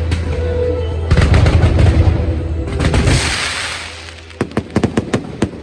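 Fireworks: a rapid salvo of crackling reports over a deep rumble, a heavy burst about a second in, a hissing spray around three seconds, then a string of separate sharp bangs near the end.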